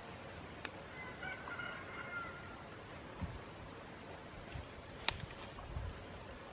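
A faint, drawn-out bird call about a second long. A sharp click follows about five seconds in, with a few soft low thumps.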